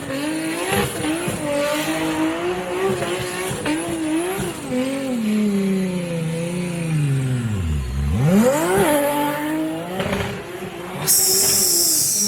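Nissan Skyline R34's turbocharged engine held at high revs during a smoky burnout, with tyre squeal. About eight seconds in, the engine note drops low and then revs sharply back up. Near the end there is a loud hiss.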